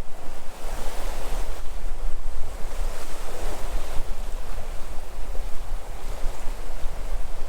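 Sea waves washing onto the shore in a steady wash of surf, with wind buffeting the microphone as a low rumble.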